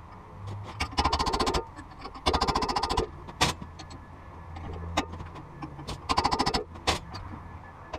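Air hammer chiselling at a broken exhaust pipe stub seized in a cast iron tractor exhaust manifold, firing in three short bursts of rapid strokes, with a few single sharp knocks between them.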